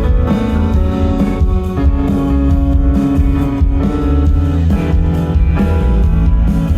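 Indie pop band playing live: an instrumental passage with steady bass, drums and sustained keyboard and guitar notes.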